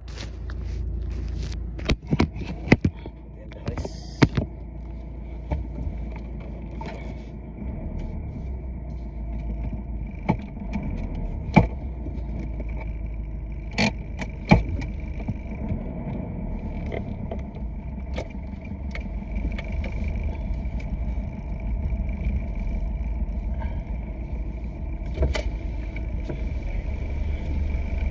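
Diesel engine idling steadily, with scattered short metallic clinks and knocks of tools or parts being handled.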